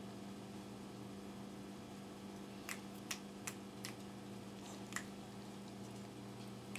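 A steady low hum with about five faint, sharp clicks scattered through the middle.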